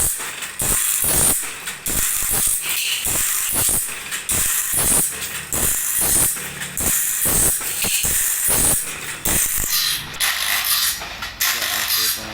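Workshop machinery servicing a bandsaw blade: rapid, uneven metallic clicking and rattling, about two or three clicks a second, over a steady high hiss.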